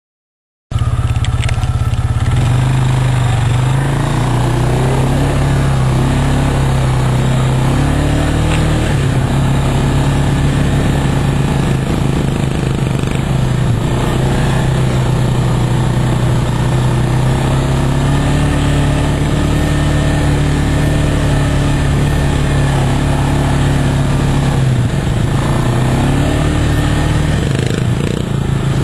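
Off-road vehicle engine running under way, starting about a second in, a steady low hum whose pitch rises and falls a few times with the throttle, over rough road and wind noise.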